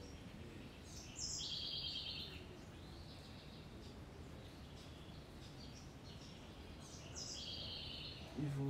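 A garden bird calls twice, about six seconds apart. Each call is a high note followed by a fast, buzzy trill lasting about a second. Under the calls is a steady low outdoor background, and a brief low hum of a person's voice begins right at the end.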